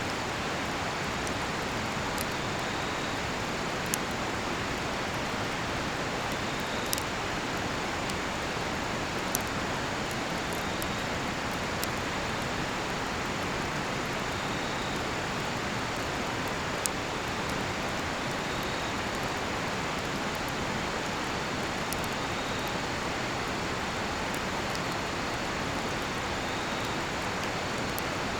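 Steady rush of a river, with a cedar-wood campfire giving a few sharp pops and snaps, four of them standing out. Faint short, high chirps of bell crickets repeat about every two seconds.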